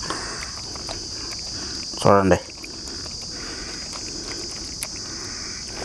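Crickets chirping steadily in a continuous high-pitched drone.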